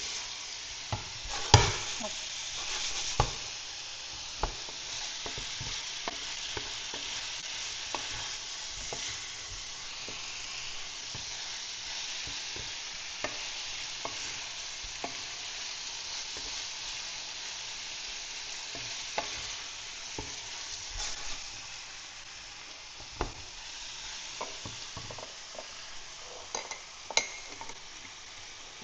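Chicken pieces coated in curry powder frying in hot oil, with a steady sizzle. A utensil is stirred through them and clicks and knocks against the pan now and then, the loudest knock about one and a half seconds in.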